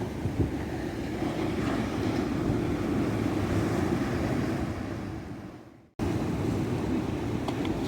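Ocean surf washing steadily onto a beach. It fades away about five seconds in and comes back abruptly a second later, as at a splice in the recording.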